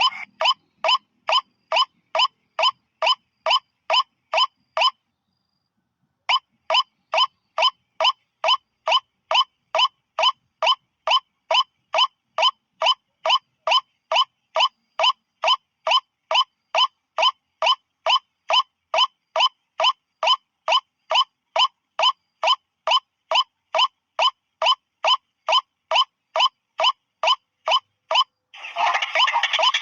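White-breasted waterhen lure call: one short note repeated evenly about two and a half times a second, with a brief pause about five seconds in. Near the end it gives way to a dense, harsh stretch of calling.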